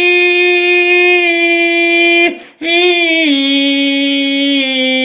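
A single voice singing an Indian film song unaccompanied, holding one long note, breaking briefly for breath about two and a half seconds in, then holding another long note that steps down in pitch twice.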